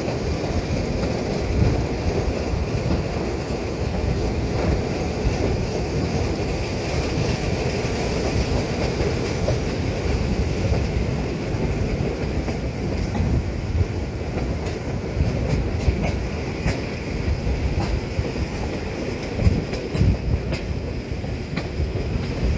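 Steam-hauled vintage passenger train running along the line, heard from beside a coach: a steady rumble of wheels on track, with short clicks of wheels over rail joints that come more often in the later seconds.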